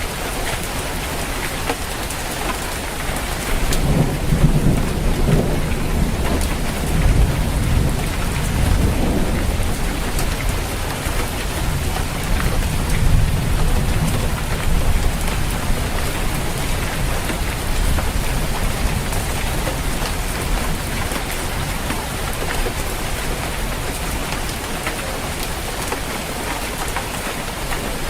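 Steady rain falling on a roof, with a long low rumble of thunder that starts about four seconds in and fades away over the next fifteen seconds or so.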